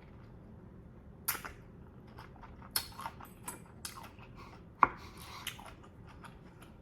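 Eating sounds: scattered short taps and clicks of a utensil against a dish, the loudest a little under five seconds in.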